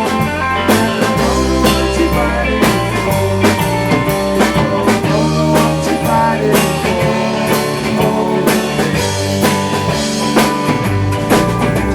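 Rock band playing: electric guitar and bass over drums keeping a steady beat.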